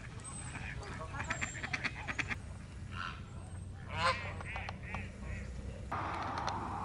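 Waterfowl calling: a quick run of short calls early on, then a few louder, drawn-out calls around the middle. About six seconds in, the calls stop and a steady noise takes over.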